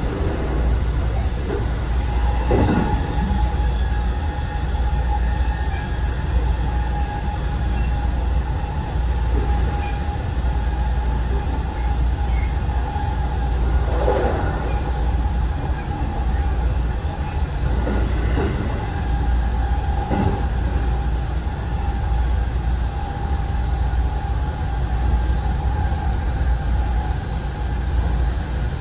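Interior running sound of a JR West 207 series commuter train, heard inside its unpowered driving trailer car: a steady low rumble of wheels on rail, with a steady hum over it and a few short louder noises.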